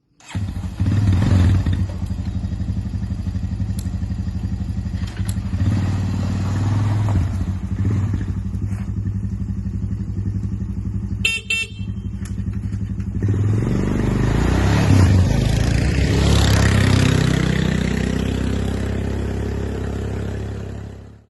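Honda TRX250 quad bike's single-cylinder four-stroke engine running, with a short high beep about halfway through. Shortly after, the engine climbs in pitch and grows louder as it is revved or ridden off.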